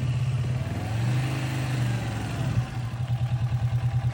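Kawasaki motorcycle engine running at low revs with an even pulsing beat. The revs come up briefly about a second in and drop back a little past halfway.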